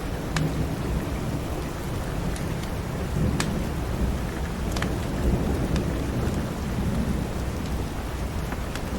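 Steady rain with a low rumble of thunder swelling through the middle, and a few sharp pops of a wood fire crackling.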